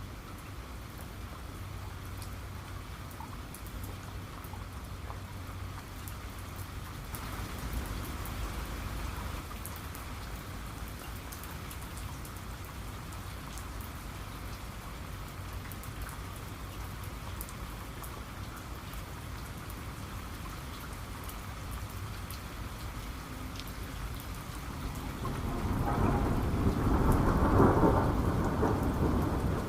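Steady rain falling, with scattered drops ticking. About twenty-five seconds in, a long roll of thunder builds and becomes the loudest sound.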